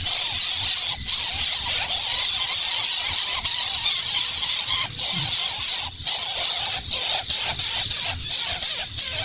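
Repeated short squealing animal calls over a steady high hiss.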